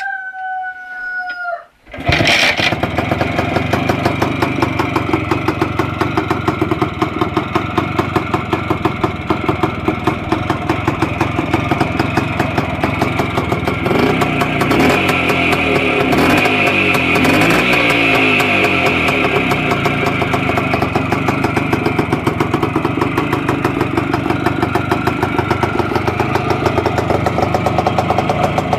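A rooster crows, then about two seconds in the restored 1959 M-103 motorcycle's small two-stroke single-cylinder engine starts and runs with a rapid, even beat. Its pitch rises and falls briefly around the middle, as if blipped, before it settles back to idle.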